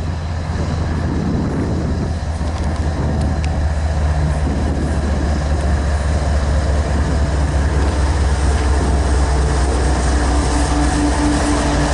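A train rolling past close by: a loud, steady low rumble with a steady hum that comes in about four seconds in.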